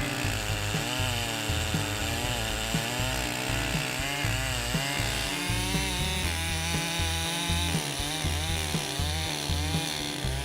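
Large Stihl chainsaw running and cutting into a log, its engine pitch repeatedly rising and falling as it works, over background music.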